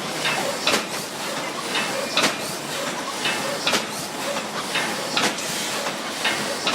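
Yenimak thermoforming machine with stacking system running: a steady hiss with a sharp clack about every second and a half as the machine cycles, with lighter clicks between.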